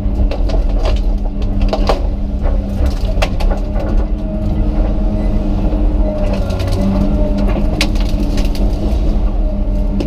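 Komatsu PC200 excavator's diesel engine running steadily under load, with many short sharp cracks and snaps of tree limbs breaking.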